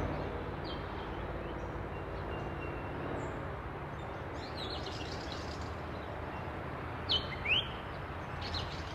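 Birds calling over a steady background hiss: short high chirps scattered throughout, with two louder sweeping calls about seven seconds in, one falling and one rising.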